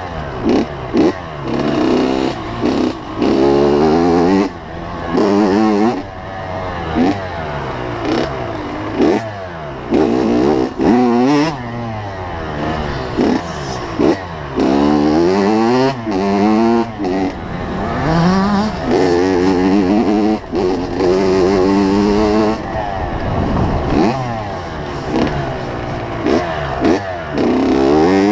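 85cc two-stroke motocross bike engine revving hard and easing off over and over, its pitch sweeping up and falling back every second or two as the rider works the throttle and gears.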